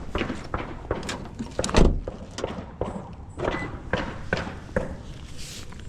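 Car door being handled: a run of irregular clicks and knocks with one heavy slam a little under two seconds in.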